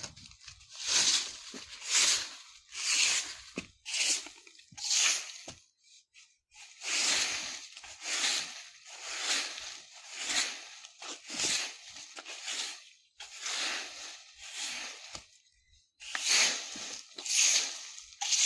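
Broom sweeping dry leaves on the ground: rustling, crunching strokes about one a second, with two short pauses.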